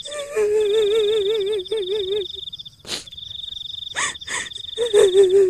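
A high-pitched female ghostly wail in rapid wavering pulses, the kuntilanak sound effect, in two spells with a gap of a couple of seconds between them. Under it runs a steady high pulsing cricket-like insect trill, broken by a few short sharp sounds near the middle.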